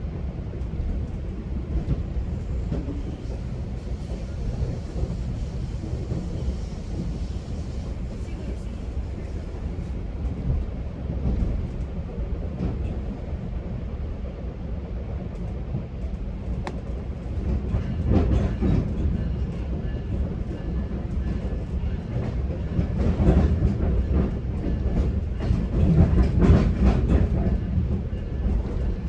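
GO Transit bilevel passenger coach running between stations, heard from inside: a steady low rumble of wheels on rail, with clicks and rattling over the track that grow louder in the second half.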